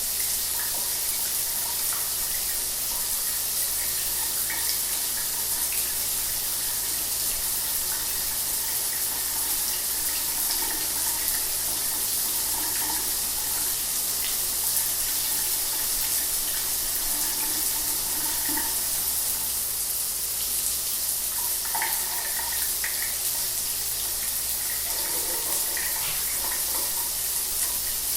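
Shower water running steadily: a constant high hiss of spray with small splashes scattered through it.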